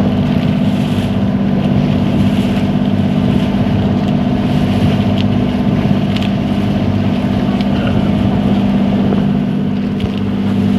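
Motorboat engine running at a steady pace, a constant low drone, heard from aboard the boat.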